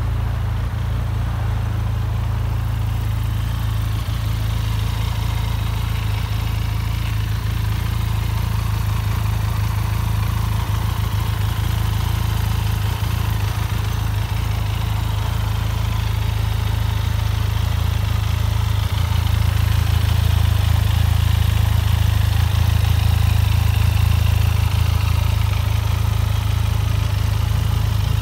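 Benelli TRK 502's parallel-twin engine idling steadily, getting a little louder in the last third.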